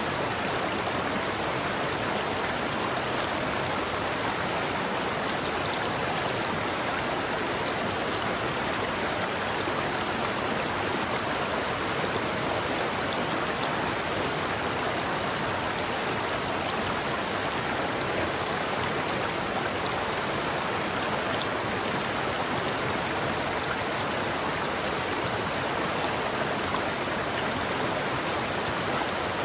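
River water flowing and babbling in a steady rush.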